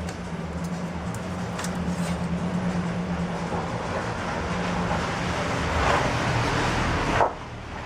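Dnepr MT-10-36 motorcycle's flat-twin engine running, getting louder over several seconds, then dropping off sharply about seven seconds in as it falls back to a lower, steady run.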